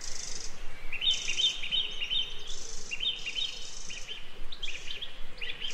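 Small songbird chirping in quick runs of short repeated notes, one run about a second in and more after, over a forest background with a high hiss that comes and goes.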